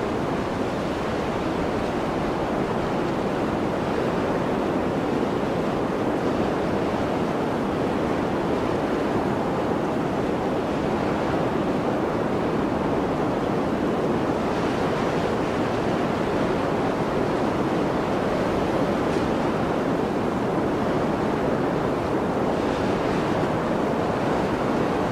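Steady rushing blizzard wind, an even wash of noise with no gusts or pauses, with a faint hiss rising briefly now and then.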